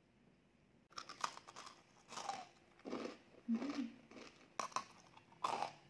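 Crunchy chewing of granola bites close to the microphone, starting suddenly about a second in and going on in irregular crisp crunches, with a short low hum midway.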